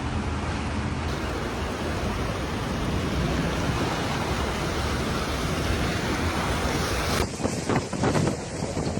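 Storm noise of typhoon wind and surging water: a dense, steady rush with wind buffeting the microphone. About seven seconds in it turns gustier and more uneven.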